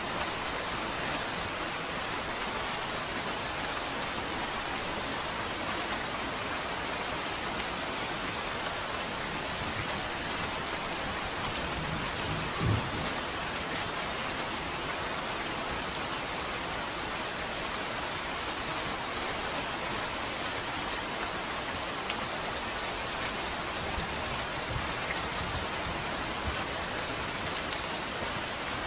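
Steady, even rain falling on a surface. A single brief low thump stands out near the middle.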